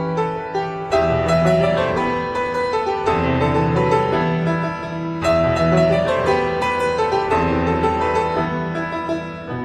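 Background piano music, a melody over sustained bass notes, with a new chord or phrase struck about every second or two.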